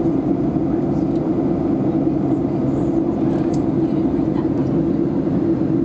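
Steady drone of an airliner cabin in cruise: jet engine and airflow noise at a constant level, heaviest in a low hum.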